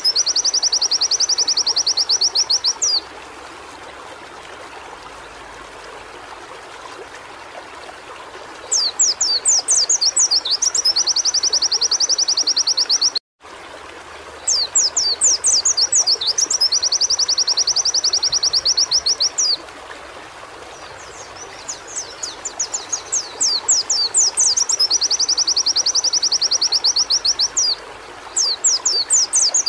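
White-eye (pleci) singing in repeated phrases a few seconds long, each opening with quick falling notes and running into a fast, high, even trill, with short pauses between phrases over a steady background hiss. The sound cuts out for an instant about 13 seconds in.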